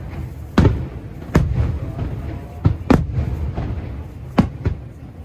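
Aerial firework shells bursting overhead: about five sharp booms at irregular intervals, each trailing off in an echoing rumble.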